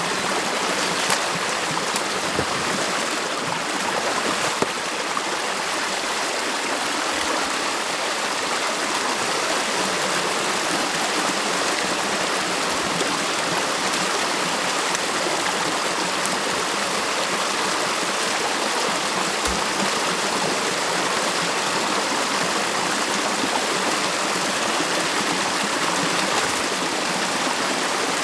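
Stream water running in a steady, continuous rush, with a few faint knocks in the first five seconds.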